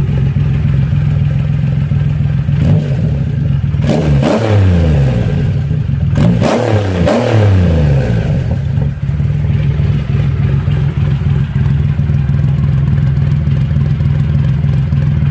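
Triumph Roadster motorcycle engine through a custom aftermarket exhaust, idling, then revved up and back down about three times in the middle, before settling back to a steady idle.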